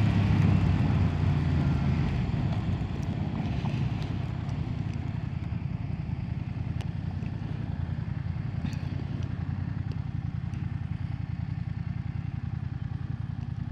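BMW F900R's 895cc parallel-twin engine easing off over the first few seconds, then running low and steady. A few sharp ticks sound over it.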